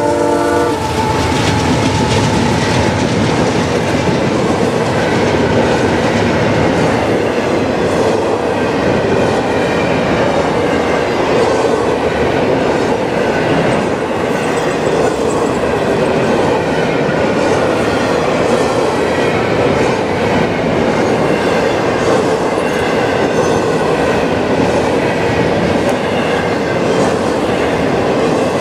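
A CSX double-stack intermodal freight train passing close by. The locomotive horn chord cuts off about a second in, then the container cars go by with a steady rumble and wheel clatter over the rail joints.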